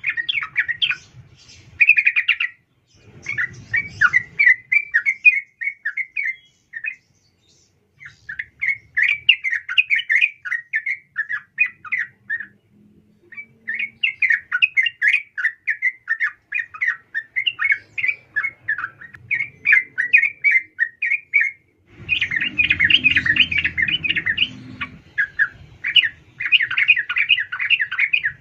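Yellow-vented bulbul (trucukan) calling in rapid, chattering phrases of bright notes with short pauses between them, a female's call used to draw a male. A low, muffled rumble comes under the calls about three-quarters of the way through.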